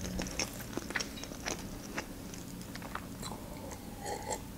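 Close-miked chewing of a sushi roll: soft, wet mouth clicks and smacks at an irregular pace. Near the end, a sip from a glass of juice.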